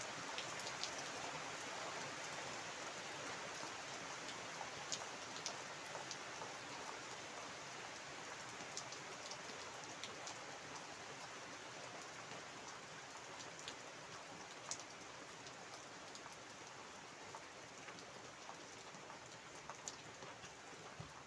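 Rain falling onto standing floodwater and leafy plants: a steady hiss with scattered sharper drop splats, growing slightly fainter toward the end.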